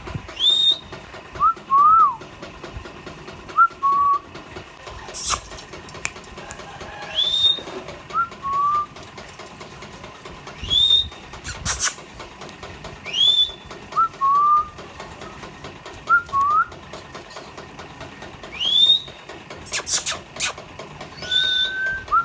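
Indian ringneck parrot whistling a repeated phrase every couple of seconds: a high rising whistle followed by short lower notes. A few brief sharp sounds come in between.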